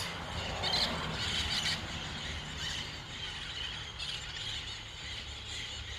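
A flock of green parrots calling from the trees, shrill squawks and screeches coming and going and overlapping.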